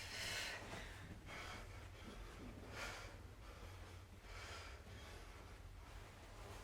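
Faint heavy breathing from exertion during a kettlebell and bodyweight exercise: airy breaths about every second and a half.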